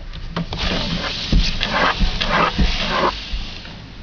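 Small wild birds calling at close range: a quick run of harsh, rasping bursts that stops about three seconds in.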